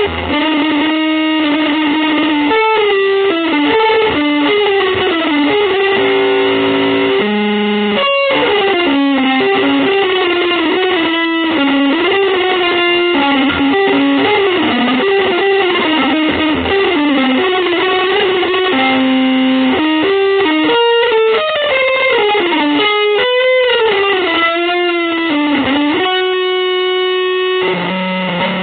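Electric guitar through effects playing a fast single-note melodic line, with slides and bent notes, then holding one long note near the end.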